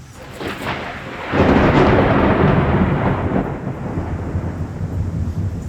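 Thunder close by: it breaks suddenly a little over a second in, is loudest for about the next two seconds, then rolls on as a slowly fading rumble.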